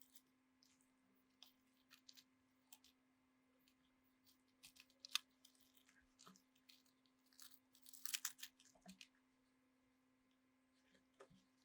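Faint, scattered small clicks and crackles, thickest about eight seconds in, over a faint steady low tone.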